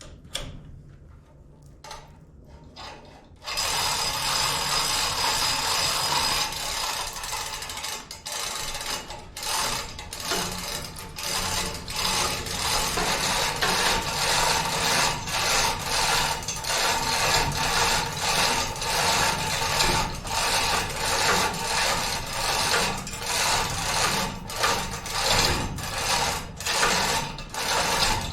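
Mechanical rasping and whirring that starts abruptly about three and a half seconds in and runs on loudly, with a steady whine and an uneven pulsing beat.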